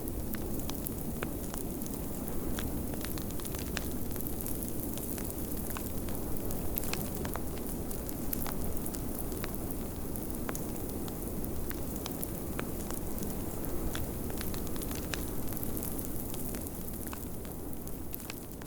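Wood fire crackling in a fireplace, with frequent sharp pops and snaps, over a steady low rush of blizzard wind; the sound begins to fade out near the end.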